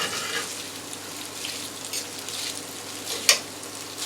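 Pasta sizzling in a frying pan as it is stirred through the pan drippings, with one sharp click from the utensil about three seconds in.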